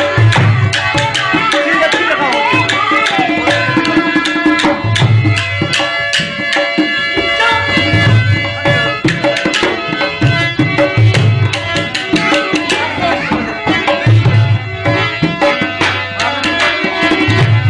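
Instrumental passage of a Rajasthani folk song: a steady hand-drum rhythm with repeated deep bass strokes under held melodic notes.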